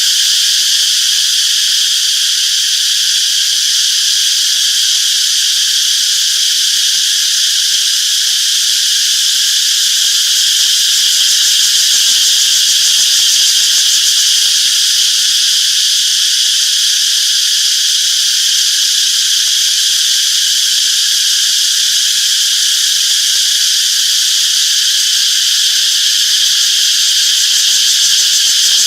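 Cicadas calling together in a loud, steady, unbroken high-pitched drone.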